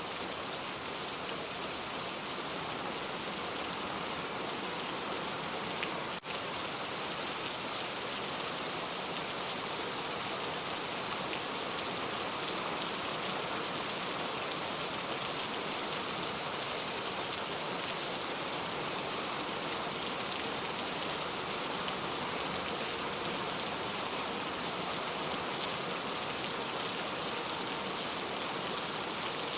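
Steady rain falling, an even hiss of many drops, with a brief click and dropout about six seconds in.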